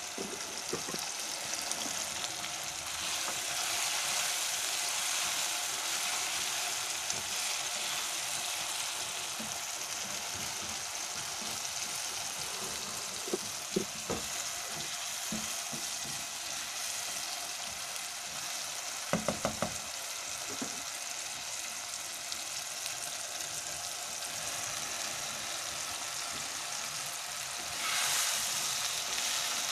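Onion-tomato masala sizzling and frying in a nonstick wok, stirred with a spatula, with a few sharp knocks of the spatula against the pan, including a quick run of four about two-thirds in. Near the end the sizzle turns louder as cut okra goes into the hot pan.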